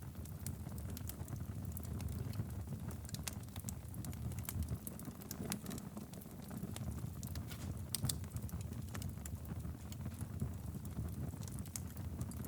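Wood fire burning steadily in a fireplace: a low rumble of flames with scattered sharp crackles and pops.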